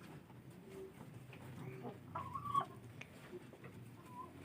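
Domestic chickens clucking softly, with a clearer, louder call about two seconds in.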